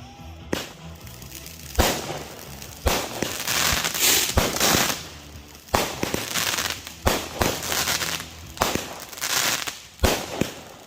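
Consumer fireworks cake firing: about a dozen sharp bangs, roughly one a second, with hissing, crackling stretches between the shots.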